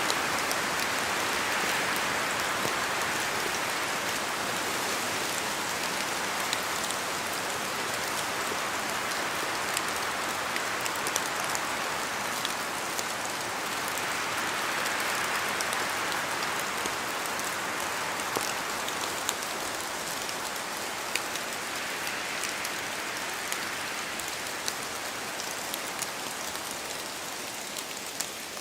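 Steady rain falling through spruce forest, with single drops tapping close by throughout and the wind in the trees swelling and easing a few times.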